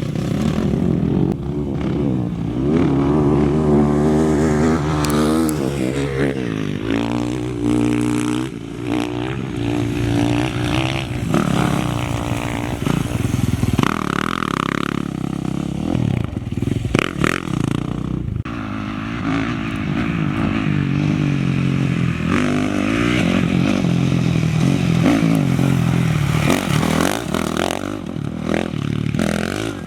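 Off-road race vehicle engines revving hard, pitch repeatedly climbing and dropping as they accelerate, shift and pass.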